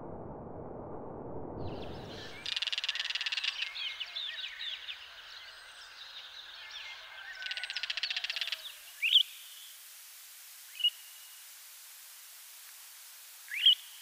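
Low rumbling noise, then, after about two seconds, a busy stretch of wild bird chirps and rattling calls. Three short, loud, rising calls follow about two seconds apart.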